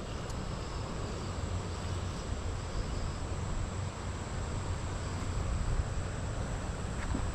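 Steady outdoor background noise: a low rumble with a constant high-pitched whine above it.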